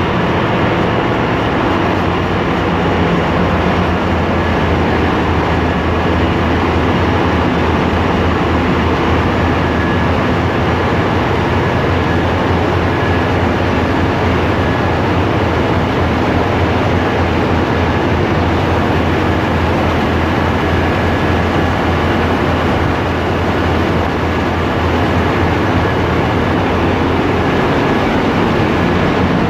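Steady, loud din of a ship's engine room: running diesel machinery, with a constant low hum under dense mechanical noise.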